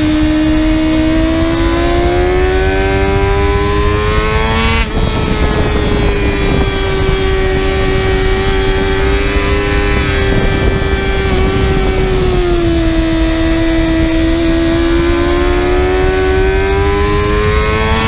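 Kawasaki ZX-6R's inline-four engine under hard acceleration on a racetrack. The revs climb for about five seconds, break sharply at a gear shift, and hold high. Past the middle they dip, then climb again near the end, over a steady wind rush.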